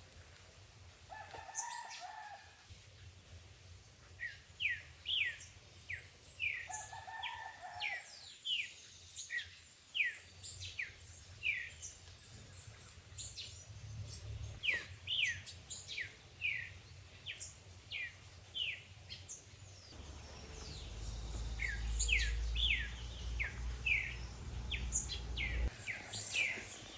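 Birds calling: runs of short, quick falling chirps, two or three a second, with two lower, longer calls about a second and seven seconds in. A low rumble joins for several seconds about three-quarters of the way through.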